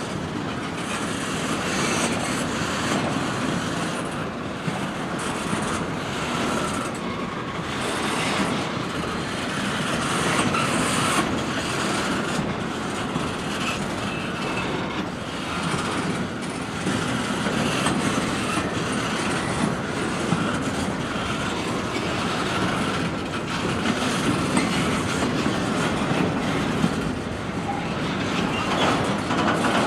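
Freight train cars rolling past, a steady rumble with the wheels clacking over rail joints.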